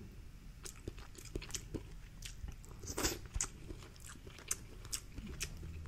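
Close-miked eating of a seafood boil: scattered, irregular crunches and sharp clicks of chewing and of hands working shellfish shells.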